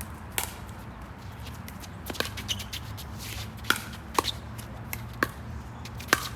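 Pickleball rally: paddles striking a hard plastic ball and the ball bouncing on the court. The result is a string of sharp pops, irregularly spaced, roughly one every half second to second and a half.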